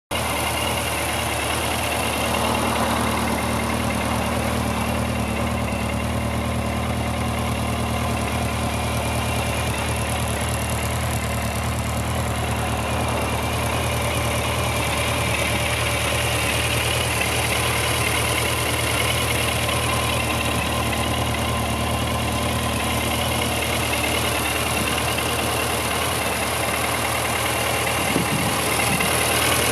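Suzuki GSX1400's inline-four engine idling steadily.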